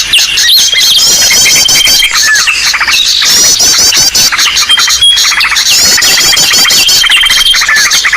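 Bird-lure call track: many small birds' chirps, rapid chattering trills and a high held whistle overlapping densely and without pause, the same calls recurring every few seconds.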